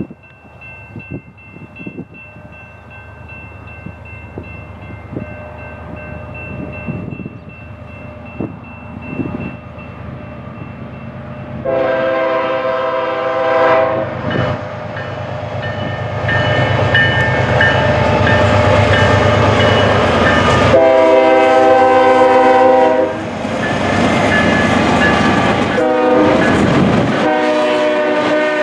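Diesel freight train led by a GE ES44DC locomotive approaching, its engine rumble and wheel noise growing steadily louder. From about twelve seconds in, the locomotive's air horn sounds several long blasts.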